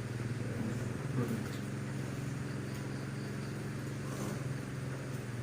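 A motor running steadily, an even low hum that does not change in pitch.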